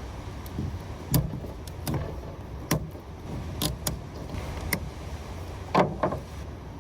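A knife cutting down the top of a California spiny lobster tail shell and cracking it open: a series of irregular sharp cracks and clicks, about eight.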